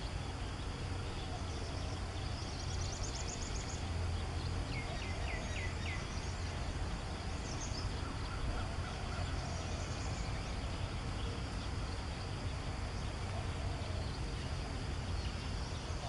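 Faint calls of small wild birds over a steady hiss and low hum: a short high trill about three seconds in, a quick run of curved mid-pitched notes about five seconds in, and a few scattered chirps after.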